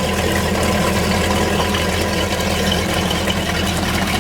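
MerCruiser 496 Mag big-block V8 idling steadily while being flushed, with its Corsa Captain's Call exhaust still closed in quiet mode. It sounds healthy for an engine with under 400 hours.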